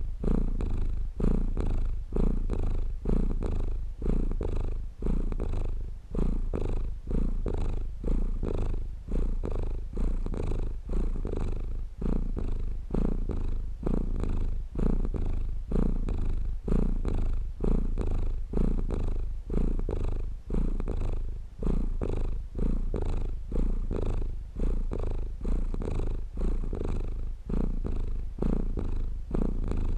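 Domestic cat purring close up: a low, steady rumble that swells and eases about once a second with each breath in and out.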